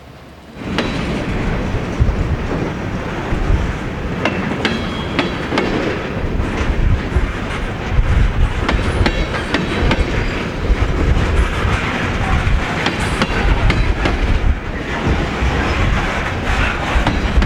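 A train rolling past close by, its wheels clicking and clacking over rail joints, with a few brief high metallic squeals. The sound starts abruptly about a second in and stays loud and steady.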